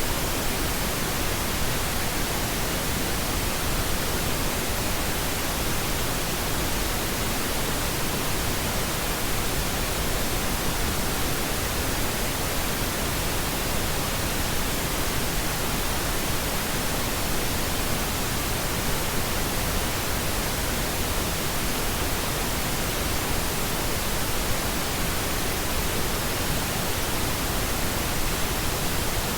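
Steady pink noise: an even, unchanging hiss spread across all frequencies, with no events or changes.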